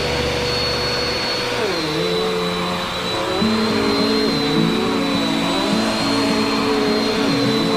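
Bissell Power Force upright vacuum cleaner running steadily while vacuuming a rug: a constant rushing hum with a steady high whine. Its lower tones waver and shift in pitch from about a second and a half in.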